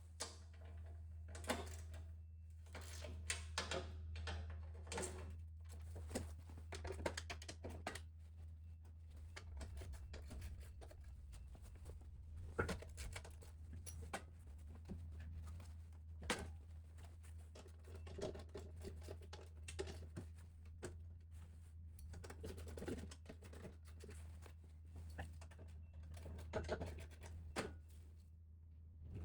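Hand tools on a Toro snowblower's skid shoe bolts: a long run of faint, irregular clicks and knocks as the shoes are loosened, dropped down and tightened again. A steady low hum runs underneath.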